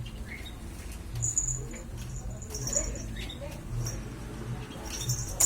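A few short, very high-pitched squeaks, spaced a second or more apart, over a low steady hum.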